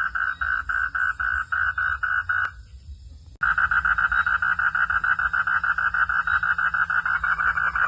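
Frog calling in a loud, evenly pulsed trill of about five pulses a second. It breaks off about two and a half seconds in and starts again abruptly just under a second later.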